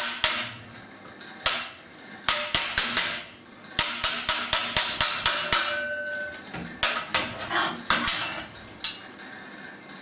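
Hammer striking sheet steel: runs of quick blows, about four or five a second, with a brief metallic ring near the middle.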